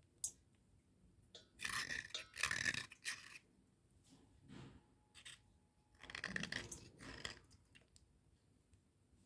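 Cubical slate pencil being rubbed clean dry: a sharp click just after the start, then spells of gritty crunching scrapes with quiet pauses between them.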